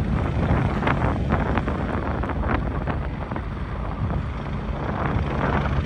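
AgustaWestland helicopter's engines and rotor running steadily, with gusty high wind buffeting the microphone.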